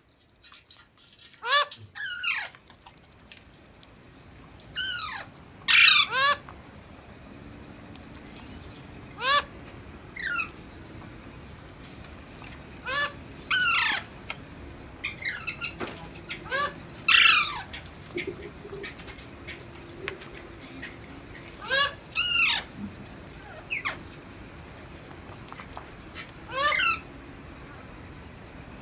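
Ringneck parrot squawking: short, harsh calls that fall in pitch, often in quick pairs, repeated every few seconds.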